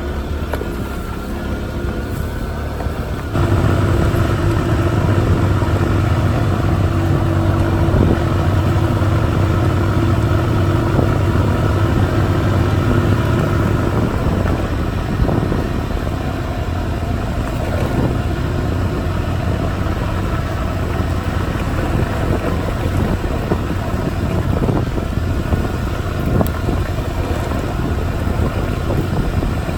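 Small 50cc moped engine running while riding, opening up and getting louder about three seconds in, holding a steady note for about ten seconds, then running rougher with more road and wind noise.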